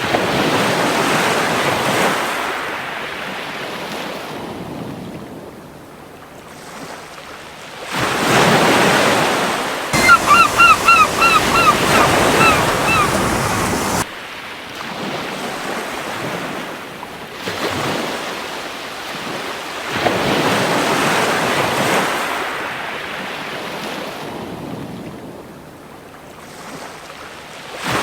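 Gentle ocean waves breaking and washing up a beach, swelling roughly every ten seconds. About ten seconds in, a seagull gives a quick run of about eight short calls.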